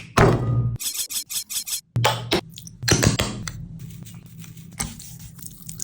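Rubbing and scraping strokes in food preparation. A quick run of short strokes comes about a second in, followed by a few separate louder scrapes.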